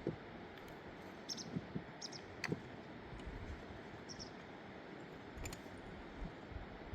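Steady rush of a river, with a few short, high bird chirps and an occasional soft knock.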